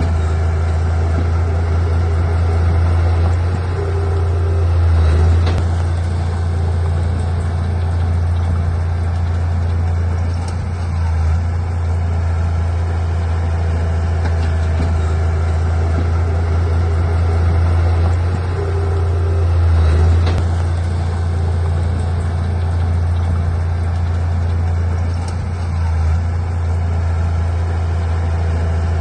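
Heavy earthmoving machine's diesel engine running steadily with a deep low drone. It swells louder twice, as if put under load, with a few faint knocks.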